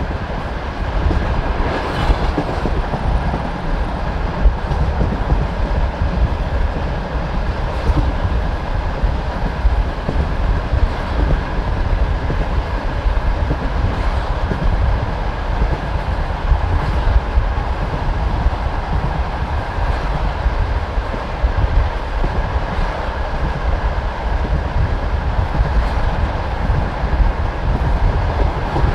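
Passenger train carriage running at speed over the track, heard from an open window: a steady low rumble of wheels on rails with a scattering of sharp wheel knocks over rail joints.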